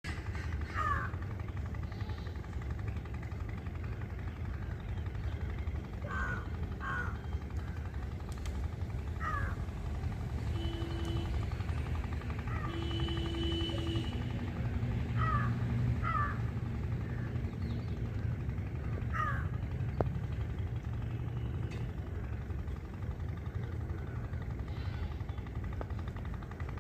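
Birds giving short, harsh, falling calls every few seconds, over a steady low rumble. A faint held hum comes in briefly about halfway through.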